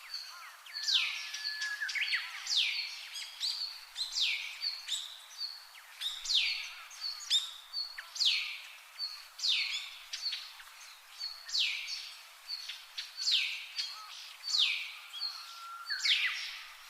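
Brown-eared bulbul calling over and over: a shrill call that sweeps sharply down in pitch, about a dozen times, with short high peeps in between.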